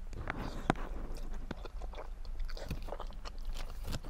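A person eating curry fried noodles with chopsticks: chewing and mouth sounds with scattered short clicks, the sharpest a little under a second in.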